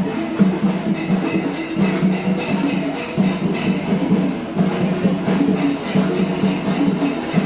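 Kerala temple percussion ensemble (melam) playing: drums beating under hand cymbals clashing in a fast, steady rhythm.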